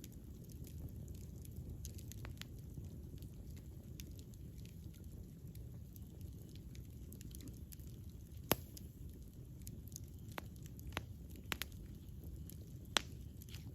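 Wood campfire burning: a steady low rumble of flames with scattered sharp crackles and pops, the loudest pops about halfway through and near the end.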